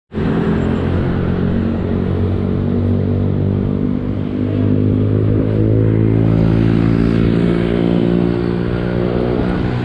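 A motor vehicle engine running steadily at an even speed, with no rise or fall in pitch.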